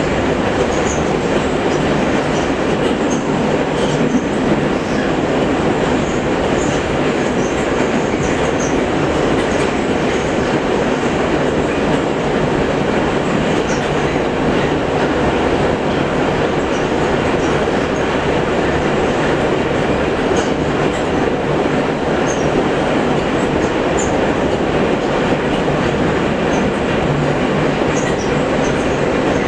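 Metro train running at speed between stations, heard inside the carriage: a steady rumble of wheels on track with faint, short high squeaks now and then.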